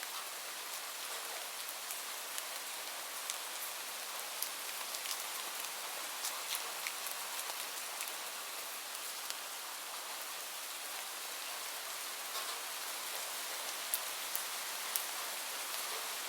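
Steady rain: an even hiss of rainfall with scattered sharp ticks of individual drops hitting a surface, a few louder drops near the end.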